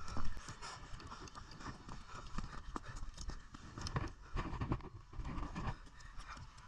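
Water splashing close up, with uneven knocks and slaps, as someone moves through the water.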